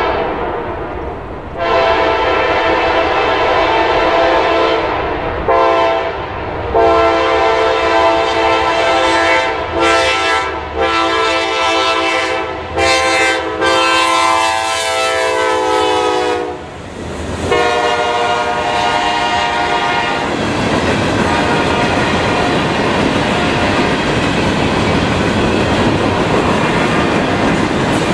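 Air horn of a CSX GE diesel locomotive sounding for a grade crossing in a series of blasts, the last one long, its pitch dipping as the locomotive passes. After that, freight cars roll by with wheels clattering over the rail.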